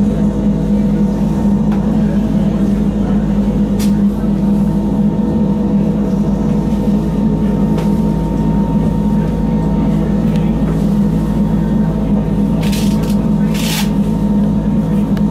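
Electric Wengernalpbahn rack-railway train running uphill, heard from inside the carriage: a steady low drone with a hum of several held tones, a few faint clicks, and two short hisses near the end.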